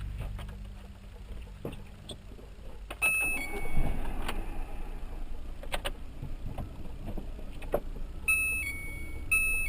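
Steady road and engine rumble inside a moving car, with scattered clicks and a louder low thump about four seconds in. An electronic tone alternates between two pitches briefly about three seconds in and again near the end.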